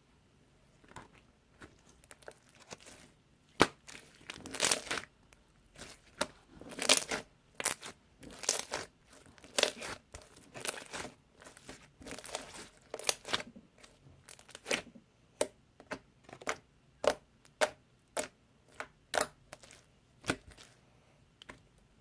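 Slime being squeezed and stretched by hand, giving irregular crackling pops with a few longer runs of crackle.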